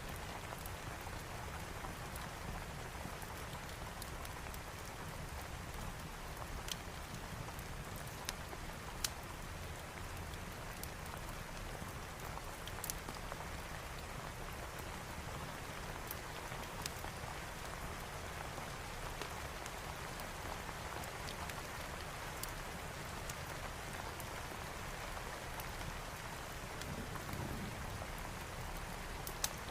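Steady rain falling, with a few scattered sharp pops from a crackling wood fire.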